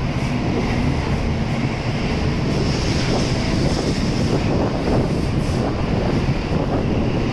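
N700A Shinkansen train pulling out of the platform, its cars rolling past with a steady, loud running noise.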